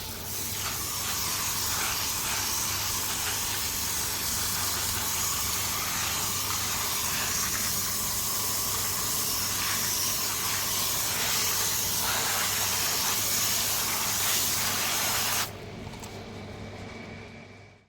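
Water spraying hard, washing the 80-grit slurry off a tumbled storm jasper stone, with a steady hiss that cuts off suddenly about fifteen seconds in. A low steady hum runs beneath it.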